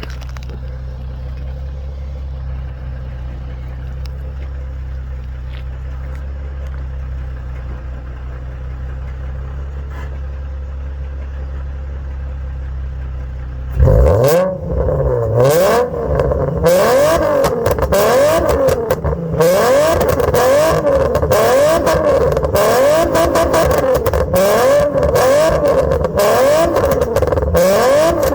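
Nissan 350Z's VQ35DE V6 idling steadily with a rod knock, then about halfway through revved hard over and over, its pitch rising and falling about once a second.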